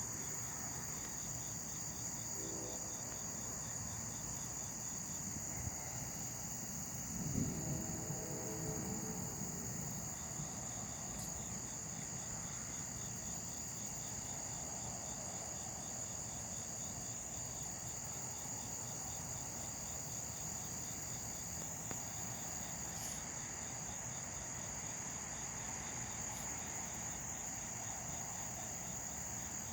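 Night insect chorus of crickets or katydids: a steady high-pitched trill with a faster pulsing chirp beneath it. A brief low rumble rises and fades about seven seconds in.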